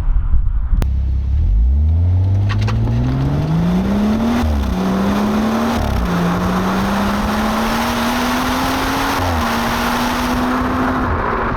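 BMW B58 3.0-litre turbocharged straight-six accelerating hard through its exhaust: the engine note climbs, drops twice at upshifts and climbs again, then holds steady near the end, with wind and road noise building as speed rises.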